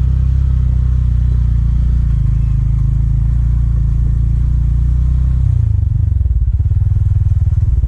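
Motorcycle engine running steadily under way. About five and a half seconds in, its note drops into slower, evenly spaced pulsing as the revs come down.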